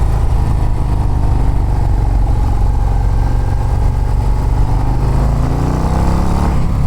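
2024 Harley-Davidson CVO ST's Milwaukee-Eight 121 V-twin pulling under acceleration. Its pitch climbs over the last two seconds, then drops suddenly near the end.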